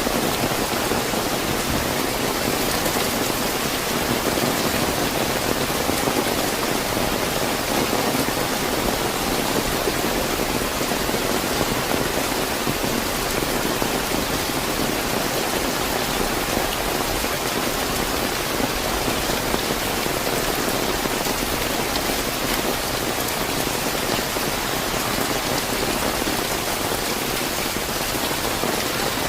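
Fairly heavy rain falling and pattering steadily on surfaces, a constant even hiss with no distinct drips or thunder.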